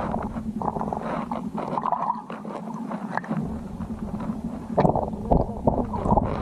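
Muffled water gurgling and rumbling as heard by an underwater camera in a creek, with irregular knocks and clicks throughout.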